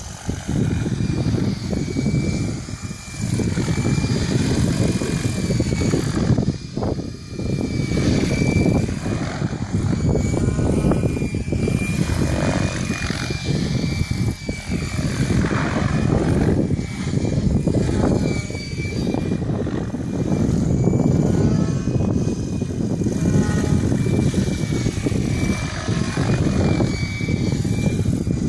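Mikado Logo 600 electric RC helicopter flying 3D manoeuvres. The rotor blades make a loud, continuous chop that swells and dips as the helicopter turns and passes, with gliding pitch sweeps. A steady high whine from the Scorpion electric motor and drive runs beneath it.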